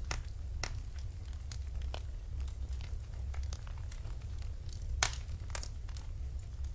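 Wood fire burning in a fireplace, crackling with irregular sharp pops over a steady low rumble, one louder pop about five seconds in.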